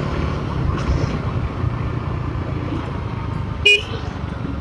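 Bajaj Dominar 400's single-cylinder engine running under way with road and wind noise, and a short vehicle horn toot about three and a half seconds in.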